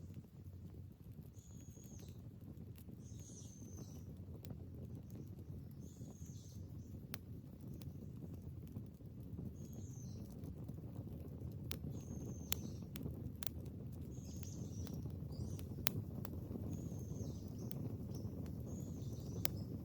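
A bird calling repeatedly, one short high call every second or two, over a low steady rumble, with scattered sharp cracks that are loudest near the end.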